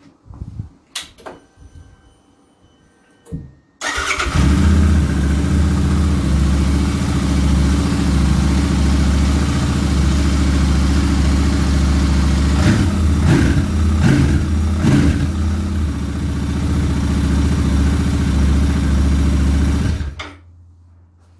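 Royal Enfield Interceptor 650's 648 cc parallel-twin engine, on its standard silencers with a DNA air filter fitted, starting about four seconds in after a few clicks and idling steadily, with a few short throttle blips past the middle, then stopping abruptly shortly before the end.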